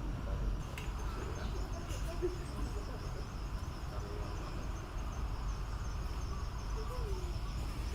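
Insects chirping steadily in an even, pulsing high-pitched drone, over a low background rumble.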